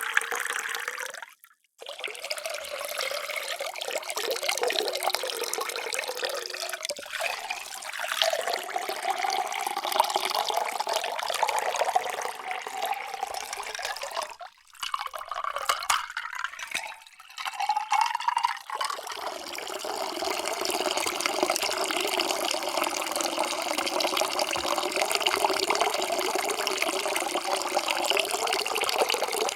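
Water being poured into a container in several separate pours, broken by short gaps about a second and a half in and again around the middle. The pitch rises slowly as each vessel fills.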